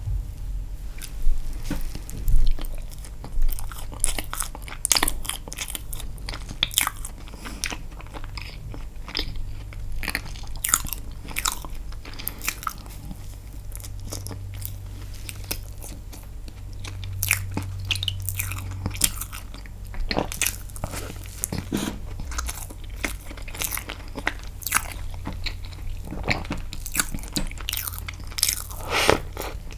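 Close-miked eating sounds of a person chewing castella sponge cake dipped in milk: irregular wet smacks and mouth clicks throughout.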